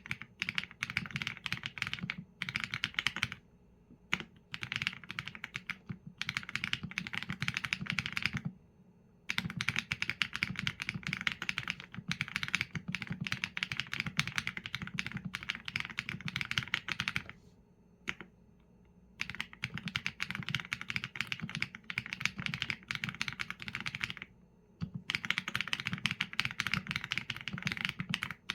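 Fast typing on a Qsenn A75 mechanical keyboard with Leobog Graywood V4 linear switches and PBT keycaps: dense runs of keystrokes broken by brief pauses every several seconds.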